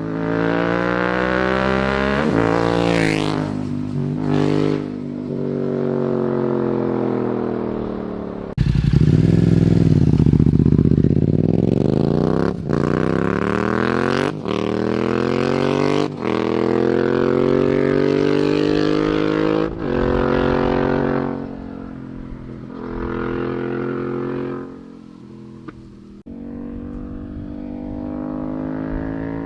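Yamaha MT-07 parallel-twin engine through a full Akrapovic exhaust with the baffle removed, riding along with the revs rising and falling again and again as it accelerates and shifts gear. There are brief breaks at the changes and a sudden loud surge about nine seconds in.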